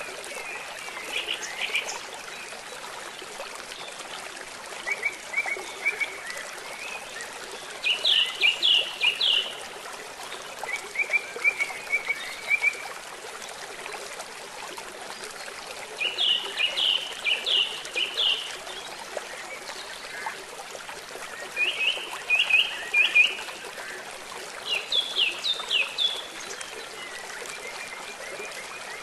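A bird chirping in short bursts of quick repeated notes, about seven bouts, over a steady hiss of rain and flowing river water.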